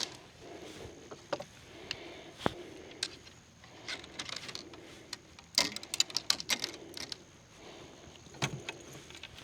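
Fishing rods and gear being laid down in a kayak: scattered light clicks and knocks, with a quick run of rattling clatter about five and a half seconds in and another knock near the end.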